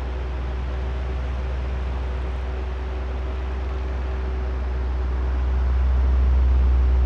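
Electric oscillating fan running: a steady rush of air over a low motor hum with a faint whine. It grows louder a little past halfway as the head turns toward the listener, then begins to ease off near the end.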